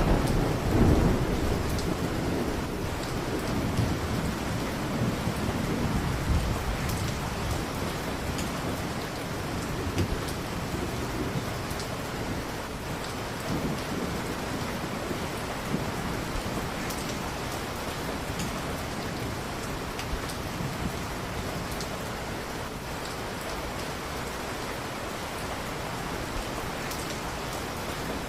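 Steady heavy rain falling, with a rumble of thunder that swells about a second in and rolls away over the next several seconds.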